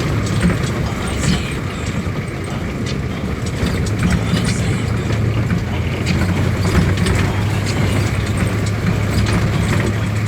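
A motor vehicle's engine running steadily with a low hum, with scattered faint clicks over it.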